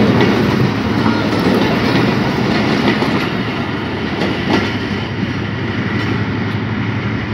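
Passenger train coaches rolling past, their wheels clattering over the rail joints with scattered sharp clicks. The sound eases off slightly in the second half as the last coach passes and moves away.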